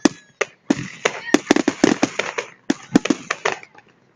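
Fireworks display going off: a rapid series of sharp bangs and crackling pops, in clusters with short pauses between them.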